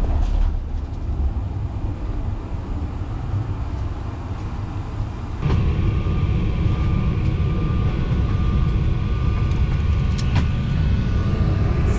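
Jet airliner cabin noise: a steady low engine rumble that steps up louder about five and a half seconds in, with a steady whine joining it.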